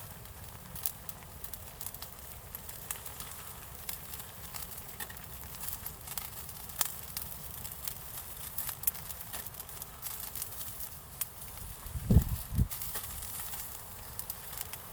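Small wood fire crackling, with irregular sharp pops. A few low thumps come about twelve seconds in.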